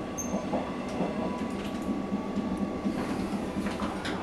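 Steady running noise of a moving passenger train, heard from inside the carriage by the door: an even rumble of wheels on track, with a few light clicks.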